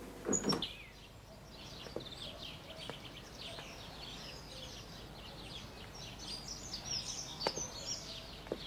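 A short knock or clatter about half a second in, then small birds chirping and twittering, many short calls overlapping.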